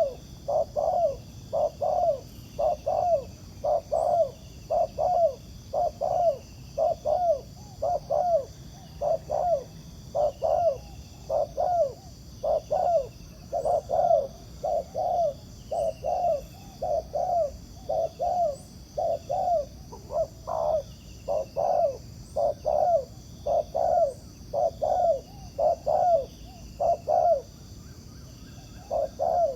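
Spotted doves cooing: a long run of short, low coos in quick groups, with a brief pause near the end.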